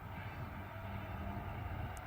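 Diesel engine of a 2TE116 diesel locomotive running, a steady low rumble with a constant hum.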